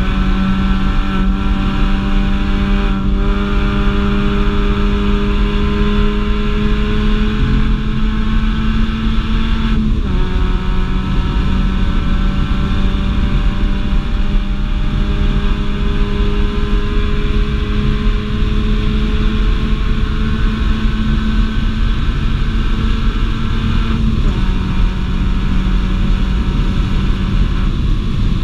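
Mini Cooper engine pulling hard, its pitch climbing slowly through each gear and dropping abruptly twice at upshifts, about ten seconds in and again near the end, over steady road and wind noise.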